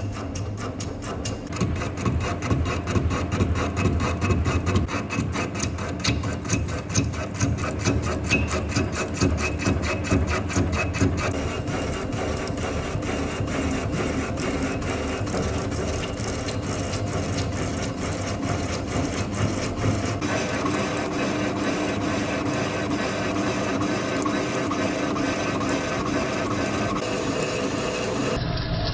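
Lathe turning a steel hydraulic cylinder rod with a carbide button insert on an interrupted cut: a rapid, even ticking as the insert strikes the broken, uneven end, over the running hum of the lathe. The ticking changes character about a third of the way through and again about two-thirds in.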